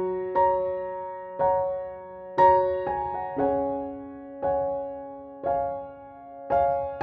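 Slow background piano music: soft chords struck about once a second, each ringing and fading before the next.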